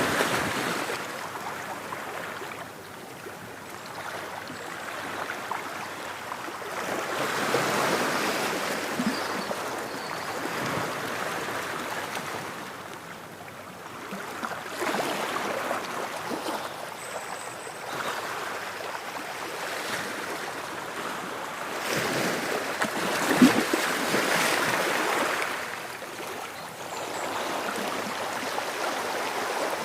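Ocean waves breaking and washing on a shore, rising and falling in surges every several seconds, with a sharper splash about two-thirds of the way through.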